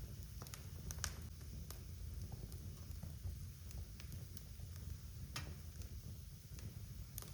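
Wood fire crackling in a fireplace: irregular sharp pops and snaps over a steady low rumble of the burning logs, with a louder pop about a second in and another near five and a half seconds.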